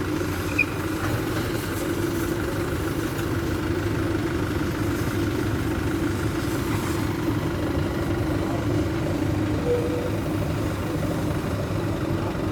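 Mitsubishi Canter dump truck's diesel engine idling steadily, with a single short click about half a second in.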